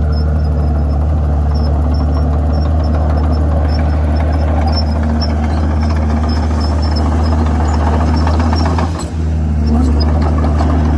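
Komatsu D51PX bulldozer's diesel engine running steadily, with a brief dip about nine seconds in.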